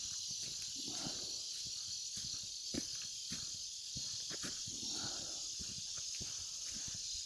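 Footsteps of people walking over outdoor ground, irregular soft knocks, over a steady high-pitched hiss of outdoor background.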